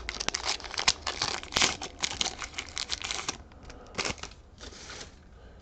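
Crinkly foil wrapper of a Pokémon TCG booster pack crackling as it is handled and opened by hand; dense for about the first three seconds, then dying down to a few fainter rustles.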